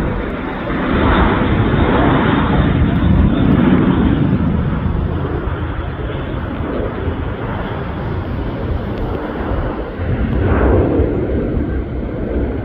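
Jet airliner engines running loud, a steady rushing noise that swells about a second in and again near the end.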